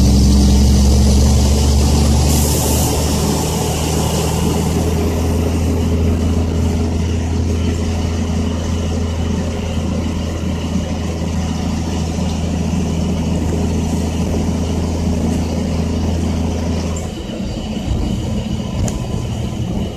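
Caterpillar C10 diesel engine of a loaded dump truck running steadily under way, with a short hiss about two seconds in. Near the end the deep engine note falls away and the sound gets quieter.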